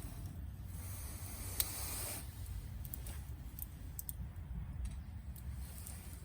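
Small wood campfire crackling, with scattered sharp pops over a low steady rumble, and a hissing rush that swells and fades in the first two seconds.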